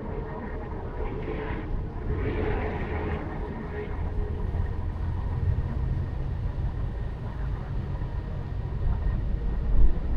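A car driving on city streets: steady low road and engine rumble, swelling louder toward the end.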